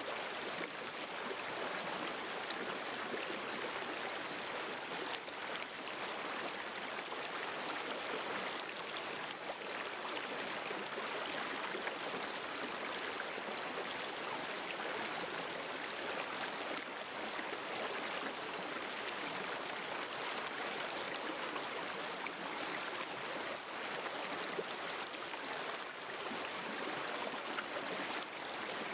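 River water flowing over stones: a steady, even rushing and gurgling of a stream.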